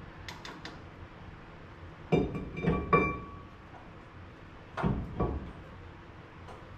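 Metal hand tools clinking and knocking against metal parts: a few small clicks, then three ringing clinks about two seconds in and two duller knocks about five seconds in.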